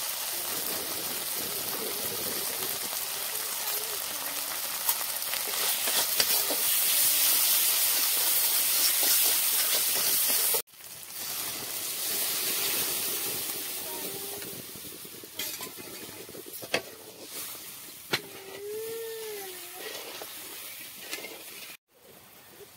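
Spiced masala sizzling as it fries in a hot kadai. After a cut about ten seconds in, water poured into the hot pan hisses loudly, then fades to a quieter bubbling, with a few sharp clicks and a short pitched sound near the end.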